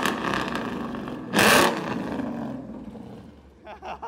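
Ford Mustang GT's V8 revved in a sharp blip about a second and a half in, then dropping back to a low rumble.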